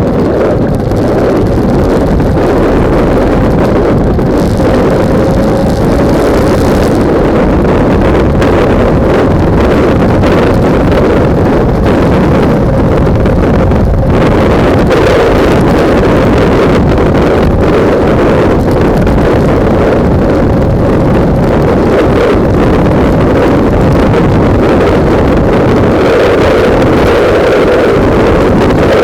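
Heavy wind buffeting the microphone of a camera mounted on a motorcycle at riding speed. A faint engine note runs underneath.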